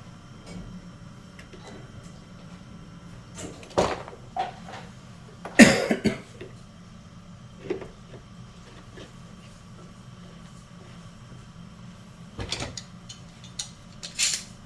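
Handling noise: scattered knocks and clatters of objects being moved and set down, loudest about six seconds in, over a steady low hum.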